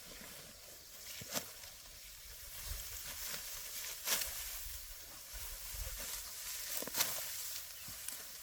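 Dry rice stalks rustling and swishing during hand harvesting, with three sharp snaps or strikes about three seconds apart.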